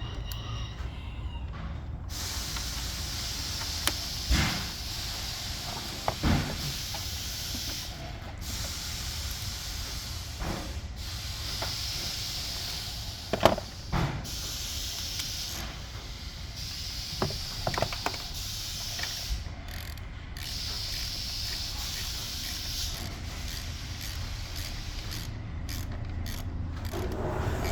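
Hand work on the Jeep Wrangler's engine while a new ignition coil and spark plugs are fitted: a few scattered sharp knocks and clicks of tools and parts over a steady low hum and a hiss that comes and goes.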